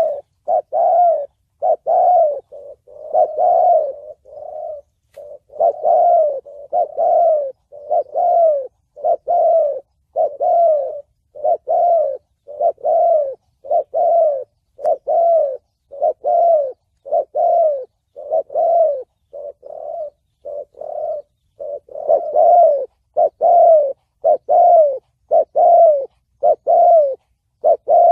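Spotted dove (chim cu gáy) cooing in the 'thổ bầu' voice used as a lure call by Vietnamese dove trappers. It is an unbroken series of short coos, about one and a half a second.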